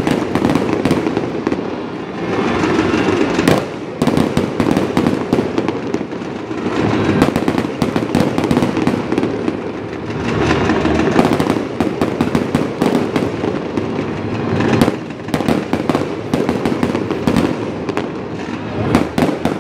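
Fireworks going off without a break: dense popping and crackling from gold crackle bursts, with sharp bangs in between. It comes in waves of thicker crackling every few seconds.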